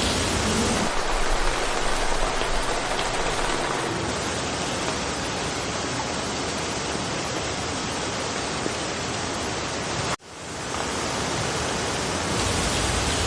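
Steady rain falling through a forest, a dense even hiss. About ten seconds in, the sound cuts out for an instant and fades back in.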